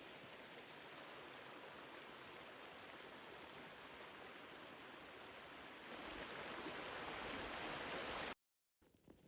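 Steady rushing of a flowing river, a little louder from about six seconds in, cutting off abruptly near the end.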